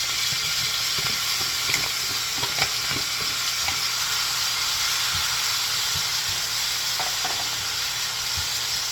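Chopped scallion, onion, sweet peppers and garlic sizzling steadily in hot oil in a frying pan, with a few faint clicks now and then.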